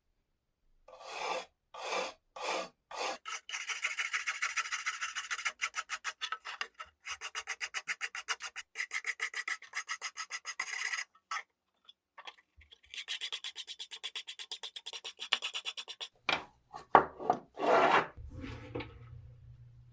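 Rapid back-and-forth abrasive scraping, several strokes a second, in two long runs, typical of hand filing or sanding in a restoration. It ends with a few louder separate strokes, and a low steady hum starts near the end.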